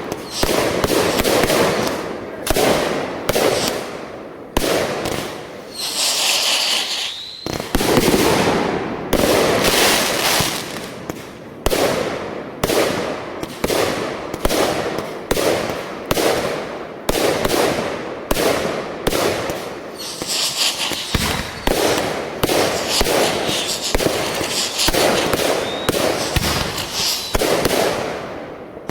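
Neighbourhood fireworks and firecrackers going off in a dense, continuous barrage of sharp bangs and pops. A high hissing stretch comes about six seconds in and again around twenty seconds.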